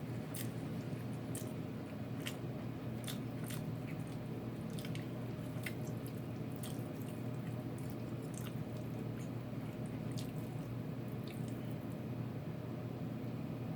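Someone eating crispy fried chicken close to the microphone: irregular sharp crunches and wet mouth clicks from biting and chewing, fewer near the end, over a steady low hum.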